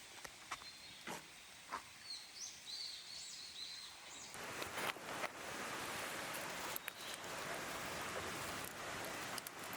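Wood campfire crackling with scattered sharp pops, while a bird chirps a few times in the first half. About four seconds in, an abrupt change brings a louder, steady hiss under denser crackling.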